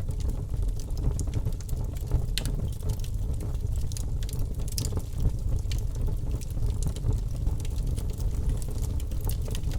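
Birchwood logs burning in a fireplace: a steady low rumble of flame with frequent irregular crackles and pops.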